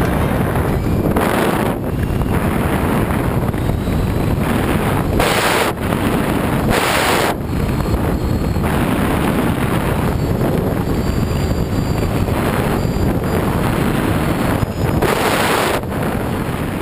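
Wind rushing over the microphone of a camera riding on a flying RC plane, with several brief louder gusts.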